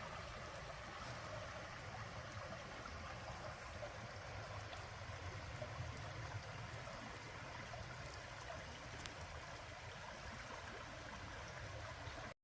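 Waterfall: a steady rush of falling water that cuts off suddenly at the end.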